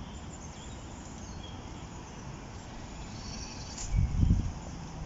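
Outdoor ambience: faint bird chirps over a steady low rumble, with a brief low buffeting thump about four seconds in.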